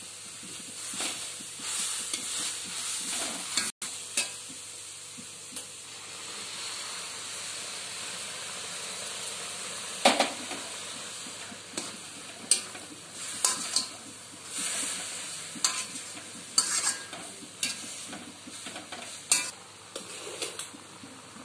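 Grated carrots sizzling in a steel kadai while a steel spoon stirs and scrapes them around the pan, with sharp clinks of the spoon on the metal repeatedly in the second half. Carrot halwa cooking down.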